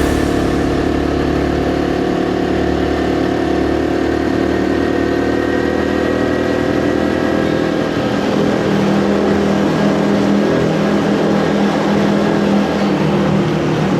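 Honda CT125 Hunter Cub's 125 cc single-cylinder engine running under way, its engine note changing about eight seconds in.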